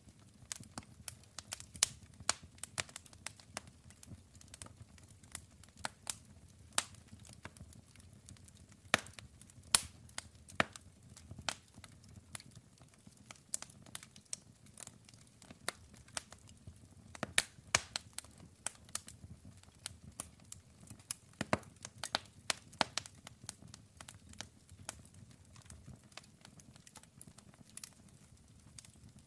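Campfire of burning wood crackling, with irregular sharp pops and snaps several times a second over a low, steady rumble of the flames.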